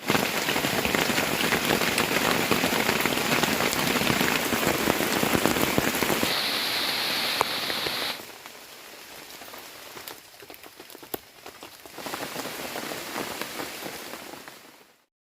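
Heavy rain falling, loud and steady. After about eight seconds it drops to a quieter patter with a few sharp drip-like ticks, then comes back heavier before fading out near the end. A high steady hiss sits over the rain for a couple of seconds after about six seconds.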